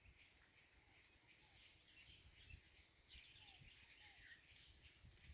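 Faint chirping of small birds: many short, high calls scattered through, over near silence.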